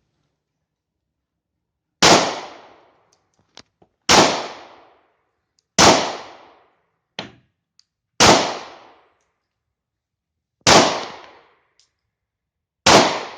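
Six shots from a 9mm German P.08 Luger pistol fired one at a time, about two seconds apart, each ending in a short echoing decay. Fainter clicks and a clink fall between some of the shots.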